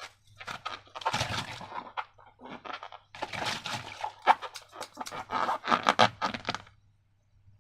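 Slime being squished and worked by hand: a run of irregular wet bursts with sharp clicks, stopping about two-thirds of a second before the end.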